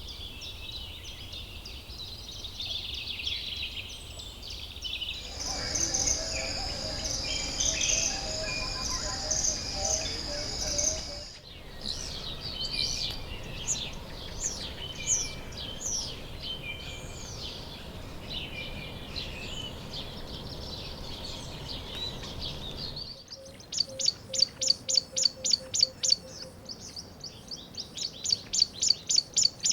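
Several birds calling and singing, in separate recordings that cut abruptly from one to the next. The last part is a quick, even series of loud chirps, about four a second.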